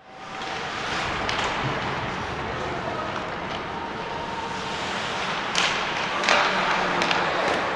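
Ice hockey game sound: a steady wash of rink and crowd noise with several sharp knocks of sticks and puck, the loudest a little over five and six seconds in.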